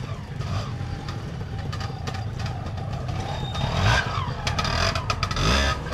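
Trials motorcycle engine blipping and revving as the bike climbs a rock step. It surges twice, about four seconds in and near the end, with a few sharp knocks in between.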